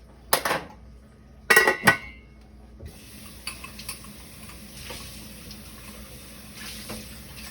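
Kitchenware clattering: a single knock, then a quick burst of hard knocks with a short metallic ring. About three seconds in, a kitchen tap starts running steadily.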